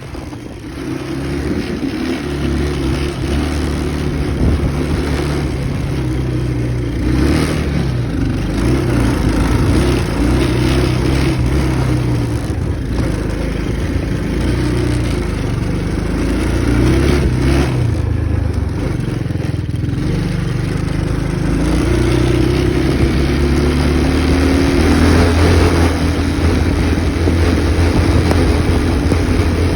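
Tao Tao 125cc ATV's small single-cylinder engine running under way, its pitch rising and falling as the throttle is worked, with wind on the microphone.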